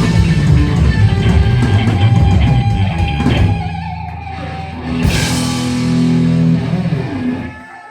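Heavy metal band playing live with electric guitars, bass and drum kit: dense riffing gives way about halfway to held chords, with a cymbal crash ringing out about five seconds in. The sound drops away near the end, as at the close of the song.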